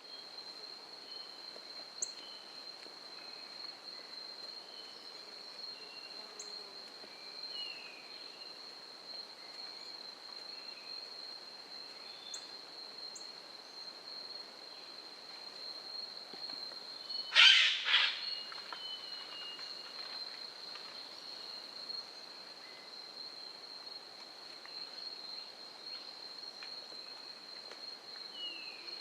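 A steady, high-pitched insect trill with scattered short bird chirps, and one loud, brief call a little past halfway.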